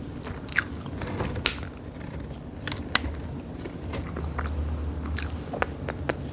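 Close-up chewing and biting of a burger, mouth sounds with sharp wet clicks and crackles scattered through, the sharpest about three seconds in.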